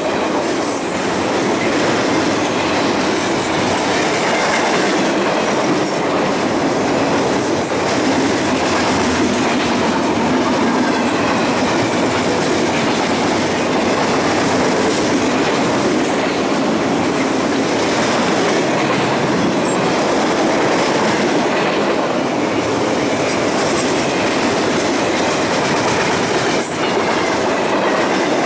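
Freight train cars rolling steadily past at speed, their wheels clattering over the rail joints.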